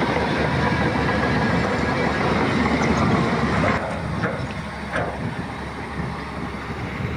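Heavy earthmoving machine's diesel engine running loud, then dropping back suddenly a little past halfway, followed by two short clanks.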